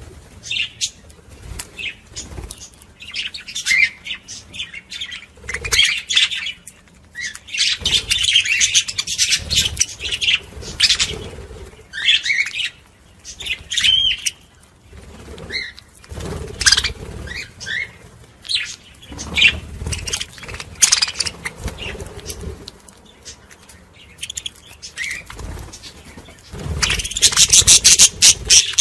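Budgerigars chattering and warbling, with many quick, irregular chirps overlapping. The chatter swells into its loudest, busiest stretch near the end.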